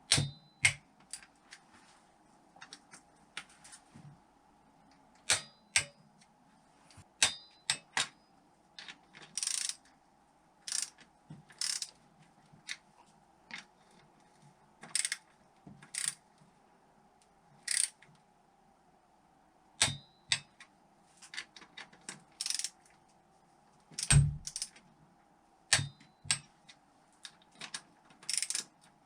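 Hand tools and metal engine parts clicking, tapping and clinking against one another during engine reassembly, a few of the clinks ringing briefly, at irregular intervals over a faint steady hum.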